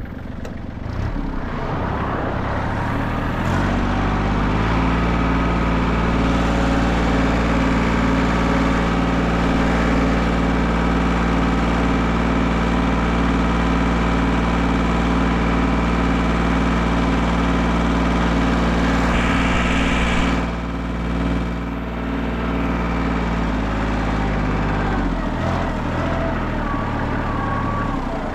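Engine that has just been started, running up to a higher steady speed a few seconds in, holding there, then dropping back to idle about three-quarters of the way through.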